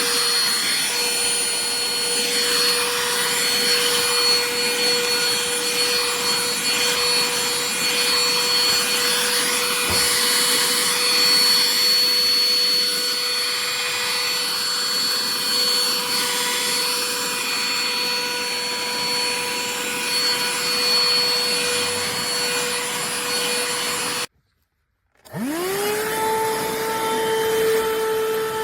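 BSRCO cordless handheld vacuum running: a steady high motor whine with the rush of airflow. Near the end it cuts out for about a second, then starts again and the whine rises back up to speed.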